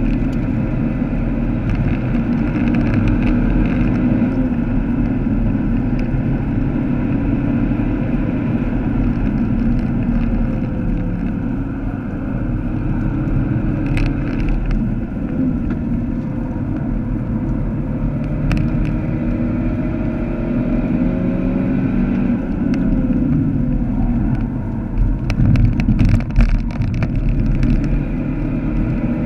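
Vauxhall Astra VXR's 2.0-litre turbocharged four-cylinder engine running hard under load, heard from inside the cabin over tyre and road noise, with the revs rising and falling through the gears. A few sharp clicks cut through, with a cluster of them near the end.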